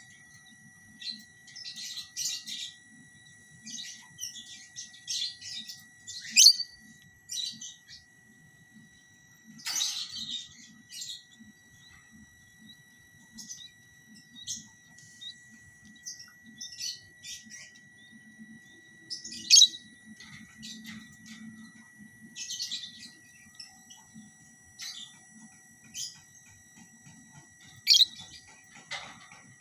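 Lovebirds giving short, sharp chirps and squawks in scattered bursts, with a few louder calls about six, ten, nineteen and twenty-eight seconds in.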